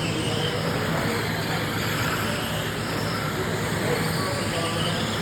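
Electric radio-controlled sprint cars running laps in a race: a steady mix of electric motor whine and tyre noise, with voices in the background.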